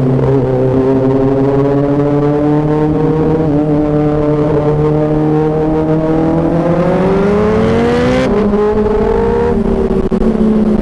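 Kawasaki inline-four sport bike engine with an aftermarket exhaust, running under way. Its pitch climbs steadily for a few seconds, drops abruptly at an upshift about eight seconds in, then holds steady.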